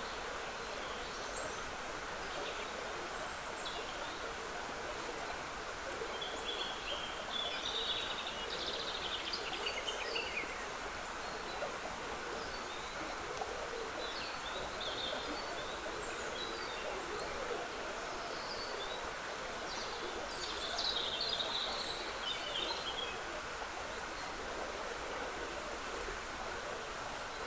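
Steady trickling of a woodland stream, with songbirds singing over it in short phrases that come thickest about a quarter of the way in and again about three quarters through.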